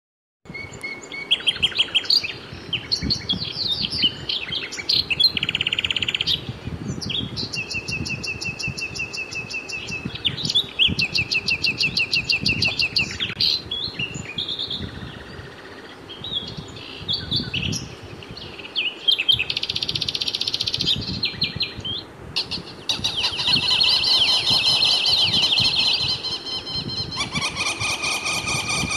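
Birds chirping and singing, many quick repeated high trills and chirps, over a faint low rumble.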